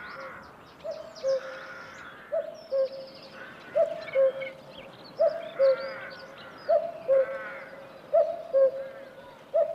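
Male common cuckoo singing its two-note 'cuck-oo' courtship call, a higher note falling to a lower one, repeated about every second and a half. Other small birds chirp faintly behind it.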